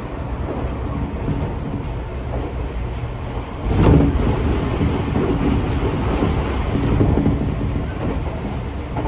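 Running noise of a Seibu 40000 series electric train heard inside a passenger car: a steady rumble of wheels on the rails. A little under four seconds in, the noise jumps abruptly to a louder rush and stays louder.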